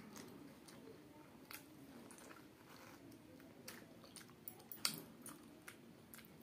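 Faint chewing of a bite of green mango, with wet mouth clicks and lip smacks; one sharper click about five seconds in.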